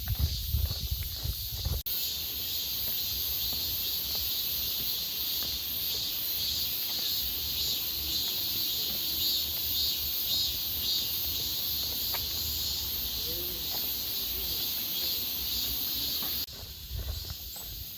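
Cicadas buzzing in a steady, loud chorus, over a low rumble. Footsteps sound in the first two seconds and again near the end, when the cicada buzz suddenly drops away.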